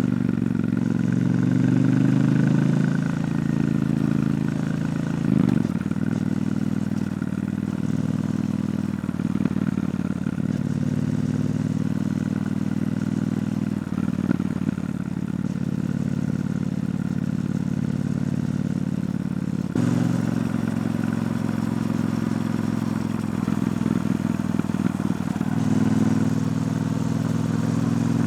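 Triumph Bonneville T120's parallel-twin engine through its stock exhaust, running under way. The engine note changes pitch several times, about five, fourteen, twenty and twenty-six seconds in, as the throttle and gears change.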